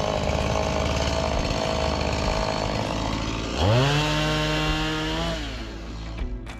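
Chainsaw running under load as it cuts through wood. About three and a half seconds in, it revs sharply up to a high, steady whine, then drops back down near the end.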